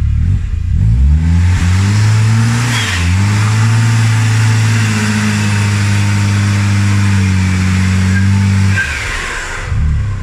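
Saab 2.3-litre turbo four-cylinder engine in a Commer van driving off under throttle through a modified JATCO 4N71 automatic gearbox: the engine note rises from idle, dips and climbs again about three seconds in, holds steady, then falls back to idle near the end with a short blip. A hiss runs along with it while it pulls.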